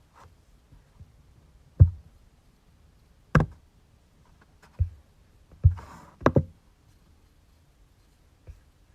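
Irregular, unhurried keystrokes on a computer keyboard, each a hard tap with a dull thud, about a second apart. A quick double tap and a brief rustle come around six seconds in.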